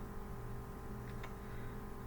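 Steady low background hum, with two faint clicks a quarter-second apart about a second in.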